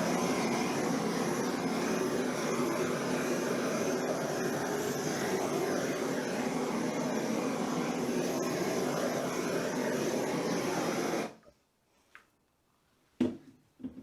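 Handheld torch flame blowing steadily over a wet acrylic paint pour. It cuts off abruptly about 11 seconds in, and a couple of brief knocks follow.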